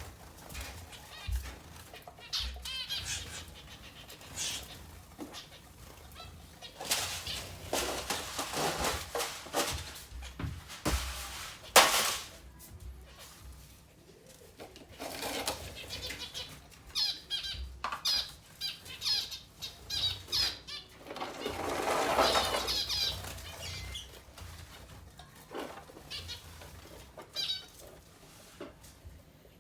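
Intermittent rustling, scraping and a few knocks as a birdcage tray is handled during cleaning, with zebra finches chirping and fluttering now and then.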